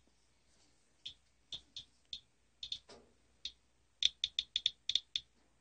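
Rad Alert Inspector Geiger counter clicking at random: a few scattered clicks, then a quick run of them about four seconds in. The count is rising near a used furnace filter, which the owner puts down to radon.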